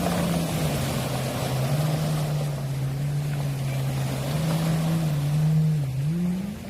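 Small waves washing over a pebble beach, the stones rattling and rolling in the backwash, with a low engine hum from a passing boat running steadily and shifting in pitch toward the end.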